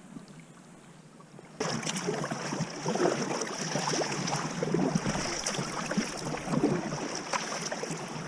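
Sea water splashing and lapping around a kayak, with many small clicks and splashes. It starts abruptly about a second and a half in, after a quiet stretch.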